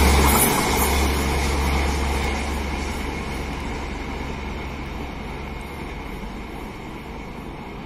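Express passenger train's coaches receding down the line: the rumble of steel wheels on rail fades steadily away, the deepest part of the rumble dropping out about two seconds in.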